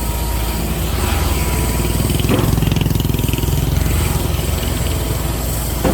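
Large diesel engine running steadily under load, from the concrete pump truck working its boom and pump.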